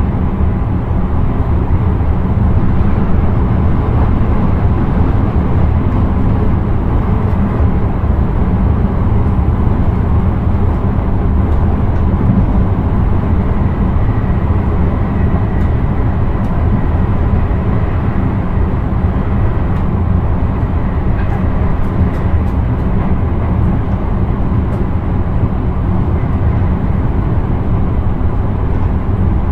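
Intercity train running steadily at speed, heard from inside the driver's cab: a continuous low running and wheel-on-rail noise with no change in pace.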